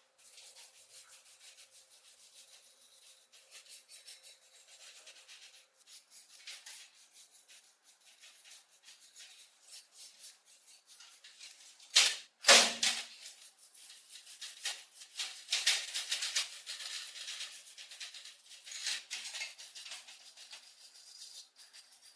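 Rapid hand rubbing and scraping strokes on the rusty cast iron of an antique corn sheller. About twelve seconds in come two loud knocks, then a busier stretch of scraping.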